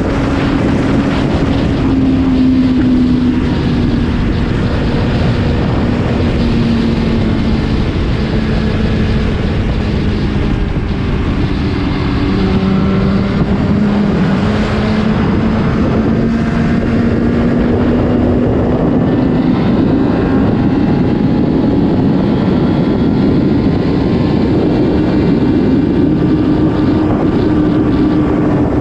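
Superbike engine with an Akrapovič exhaust running at steady cruising revs, its pitch sinking slowly and climbing back again near the end, under heavy wind rush on the microphone.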